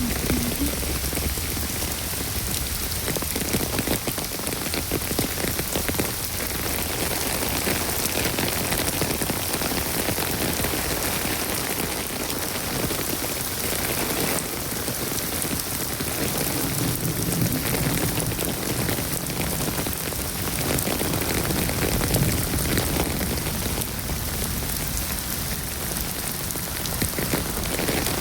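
Steady rain falling and pattering on surfaces, a dense continuous hiss of many drops.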